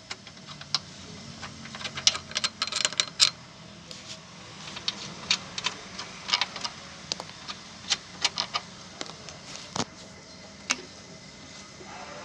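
Irregular metallic clicks and clinks of hand tools on the car's suspension bolts, with a quick cluster about two to three seconds in.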